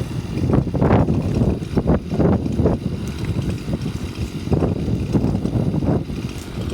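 Wind buffeting the phone's microphone: loud, irregular low rumbling gusts.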